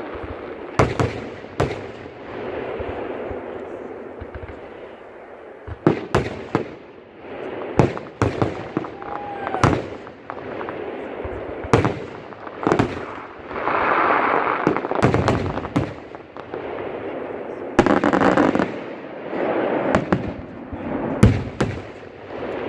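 Aerial fireworks display: a dozen or more sharp bangs at irregular intervals as shells burst, with a steady noise filling the gaps between them.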